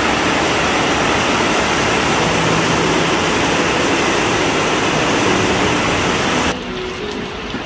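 Heavy rain pouring down in a loud, steady hiss, which cuts off suddenly about six and a half seconds in.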